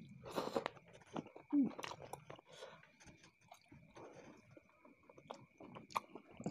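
Close-miked chewing of a chili-sauce-coated meatball: soft wet mouth sounds and scattered small clicks, with a faint steady high tone behind.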